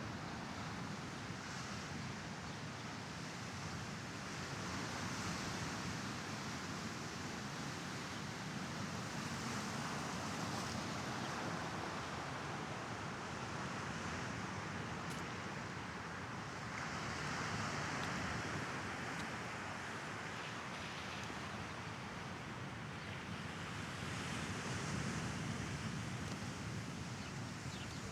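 Small Mediterranean waves washing onto the shore: a steady wash of surf that swells every six to eight seconds.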